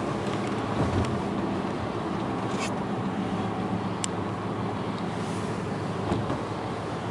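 Steady road and engine rumble inside a moving car's cabin, with a couple of light knocks, about a second in and again near the end.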